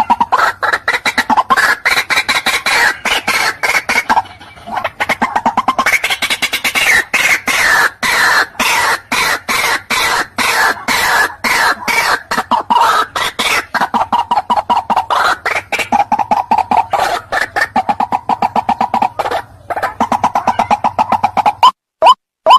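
White-breasted waterhen (chim quốc) calling: a loud, fast, harsh chorus of croaking notes, several a second. It pauses briefly about four seconds in and gives way near the end to evenly spaced single rising call notes.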